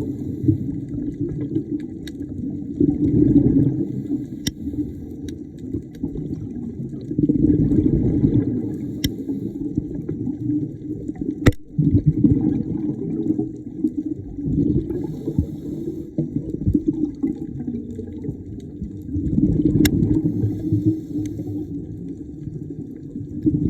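Underwater bubbling and rumbling from a scuba diver's breathing, rising in swells every few seconds as exhaled bubbles pour out of the regulator, with a few sharp clicks.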